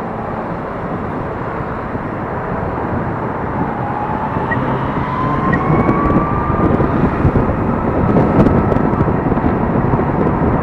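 Riding a Gogoro 2 electric scooter: wind and road noise rush past, growing louder about halfway through, while a thin electric motor whine rises in pitch as the scooter speeds up.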